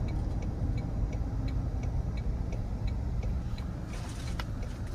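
Low, steady road and cabin hum inside a Toyota Tundra Capstone pickup cruising quietly, with a light regular ticking about three times a second.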